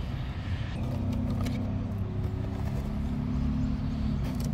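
A motor vehicle's engine running with a low, steady hum, joined by a few light clicks and rustles as cables and packaging are handled.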